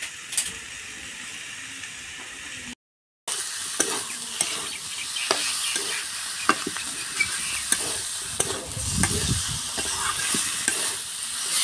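Chicken curry frying in a metal kadai, sizzling steadily while a spatula stirs it, scraping and tapping against the pan in many short clicks. The sizzle drops out briefly about three seconds in and is louder after.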